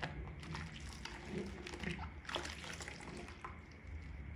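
Wet makeup sponge being squeezed and rinsed in soapy water: irregular small wet crackles and squelches over a low steady hum.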